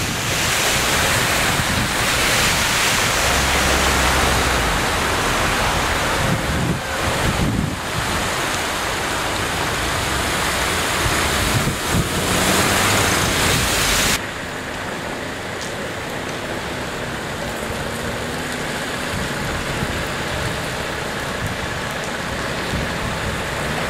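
Heavy rain and rushing water, a dense steady noise. About 14 seconds in it drops suddenly to a quieter, steady rush.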